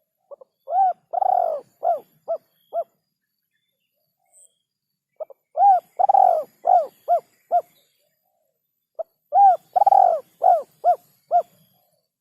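Male spotted dove cooing: three repeated phrases, each a couple of soft short notes, a coo, one long drawn-out coo, then three shorter coos, with a pause of about two seconds between phrases.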